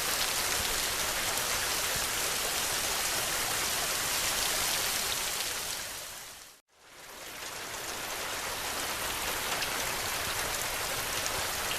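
Steady heavy rain hiss mixed with the fine crackling of a wood fire. About six seconds in, the sound fades smoothly to silence, then fades back up over a second or two.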